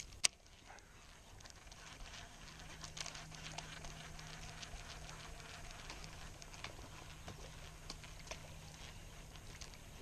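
A sharp click from a baitcasting reel about a quarter second in, then faint irregular ticking and pattering while line is reeled in, over a faint steady low hum.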